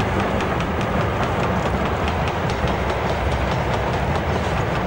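A railway train running along the track: a steady rumble with a quick, regular clicking of wheels over rail joints, about four to five clicks a second.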